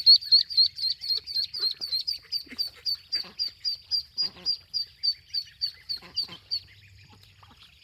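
Ducklings peeping loudly in a fast, even series of high calls, about four to five a second, which stop near the end. These are distress peeps from babies separated from their mother duck, and they keep squeaking until they are back with her.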